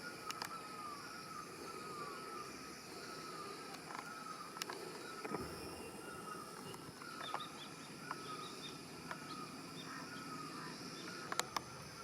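Outdoor ambience with a bird repeating a short falling call, about twice a second at first and more sparsely later, over a steady background hiss, with a few sharp clicks.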